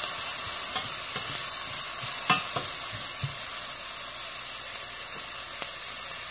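Chopped onions sizzling steadily in a hot stainless steel pan, with a few short clicks of the spatula against the pan as they are stirred, the sharpest about two and a half seconds in.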